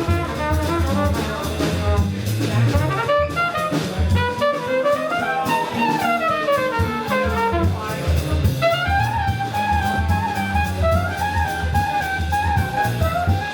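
Live jazz band playing: a horn carries the melody, with a run of falling notes midway and then longer held notes. Bass and a drum kit with cymbals play steadily underneath.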